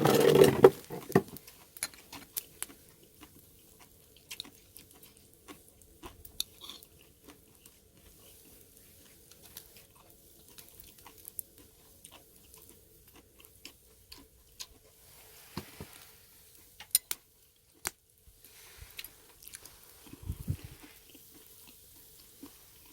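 People chewing and biting into food, close to the microphone, with crunches as they eat kimchi and cabbage wraps. The loudest moment is a short burst right at the start; after it come scattered small clicks.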